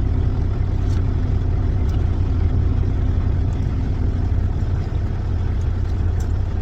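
Semi-truck engine running, a steady low rumble heard from inside the cab.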